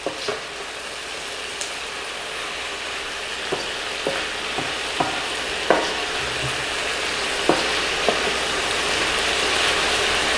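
Pork pieces sizzling in oil in a wok, the sizzle growing steadily louder, while a wooden spatula stirs them and knocks against the pan about eight times, each knock ringing briefly.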